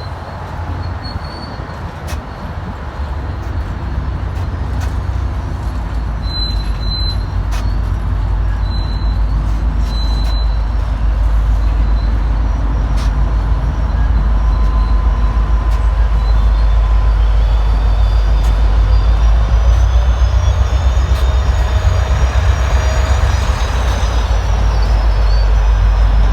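MBTA train running with a heavy low rumble that grows louder over the first half and then holds. A few sharp clicks and a faint high whine that rises and falls in the second half sound over it.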